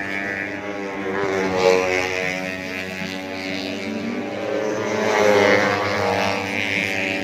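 Several 150cc four-stroke underbone racing motorcycles running at high revs, their engine notes rising and falling in pitch as they accelerate and shift. The sound is loudest about five seconds in.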